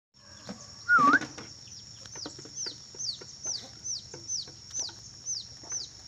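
Birds calling: one loud, wavering squawk about a second in, then a regular run of short, high chirps falling in pitch, about two a second, over a steady high-pitched whine.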